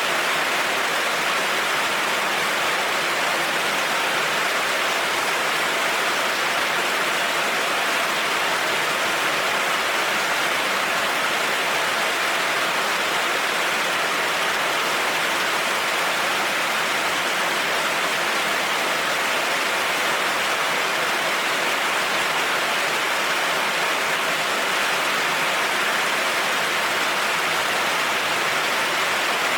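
Heavy rain falling steadily on a road, an even, unbroken patter with no thunder.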